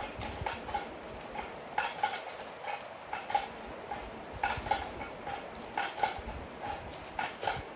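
Irregular knocking and clacking, a few short hard knocks a second, with gaps between them.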